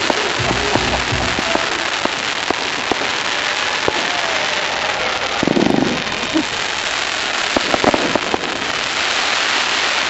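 Fireworks crackling and popping densely: a continuous hiss-like crackle studded with many sharp cracks.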